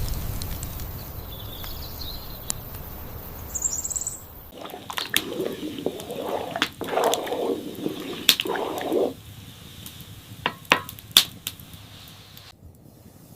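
Farmyard ambience. A low rumble fades and a single short, high bird chirp sounds; then, after an abrupt change, hens cluck in a run of low calls for about four seconds, with scattered sharp clicks. The calls stop and only the clicks go on near the end.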